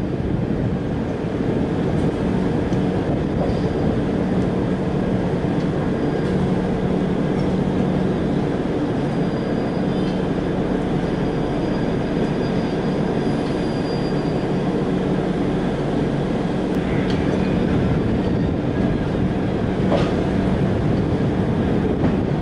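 Rajdhani Express passenger train running at speed: a steady rumble of wheels on rail with a constant hum. A faint high squeal comes in for a few seconds midway, and a sharp click sounds near the end.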